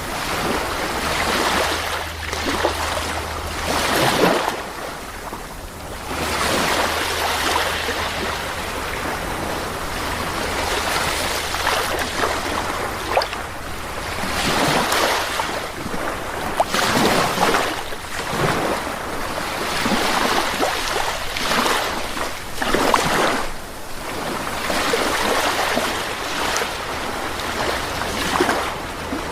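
Sea waves breaking and washing onto a beach, surging and receding every few seconds.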